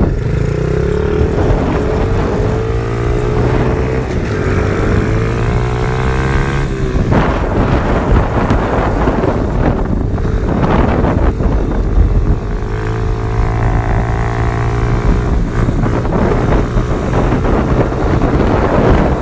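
Orion pit bike's small single-cylinder four-stroke engine running at a steady note, with wind buffeting the microphone; the engine note gives way to rough wind noise for a few seconds in the middle and then steadies again.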